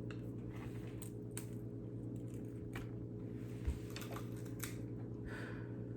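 Scattered small crunches and clicks from people biting and chewing a dry, cookie-like snack, over a steady low hum.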